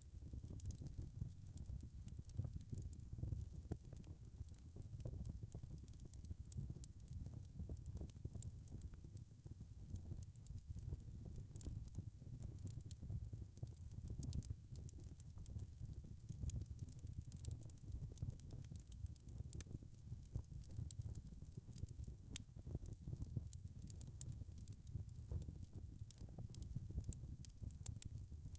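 Wood fire crackling: a steady low rumble of burning with many small, irregular pops and snaps throughout.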